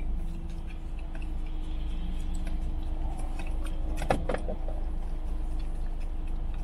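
Steady low hum of a car's idling engine heard inside the cabin, with a brief squeak about four seconds in as a small dachshund's nose meets a paper cup. Faint lapping follows as the dog licks whipped cream from the cup.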